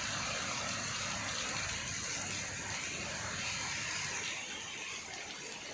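Heavy rain falling steadily, a constant rushing hiss of water that eases off a little about four and a half seconds in.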